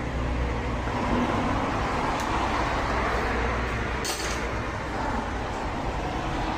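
Steady mechanical noise: a low hum under an even hiss, with a single light clink about four seconds in.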